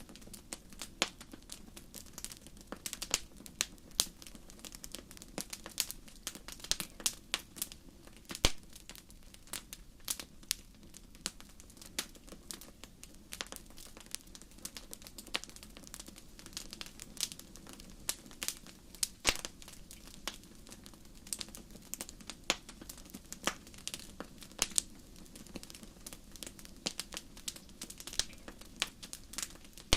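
Crackling fire: irregular sharp pops and snaps, several a second, over a faint steady low background.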